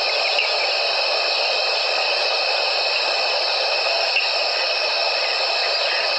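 Evening chorus of crickets and other night insects: a continuous dense trilling at several steady pitches, with no pause.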